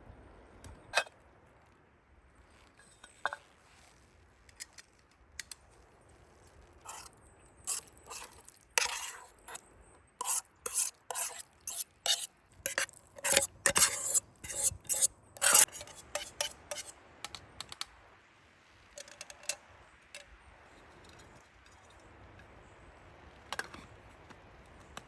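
A metal utensil knocking and scraping against cookware, as in stirring a pot. There are scattered single clinks, then a dense run of quick clatters and scrapes in the middle.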